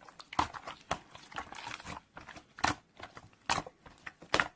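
Slime being squeezed and poked by hand, giving a string of sharp, wet clicks and pops at irregular intervals.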